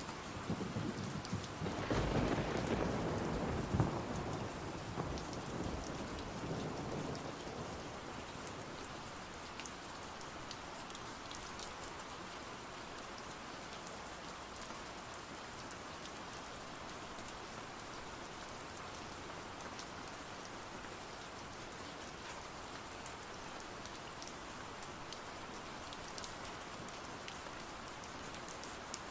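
Steady rain with a roll of thunder near the start that rumbles for a few seconds and fades away, leaving the rain falling evenly.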